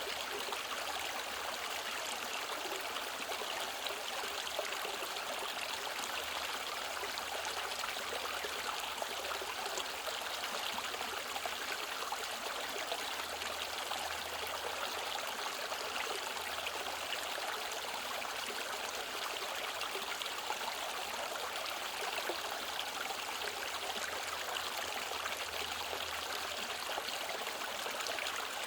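Mountain valley stream running with a steady rushing and trickling of water.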